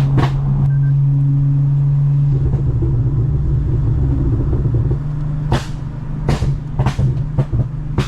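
Toyota Mark X V6 with a modified exhaust, droning steadily as the car drives; the drone eases about five seconds in. Several sharp clicks or taps follow over the last three seconds.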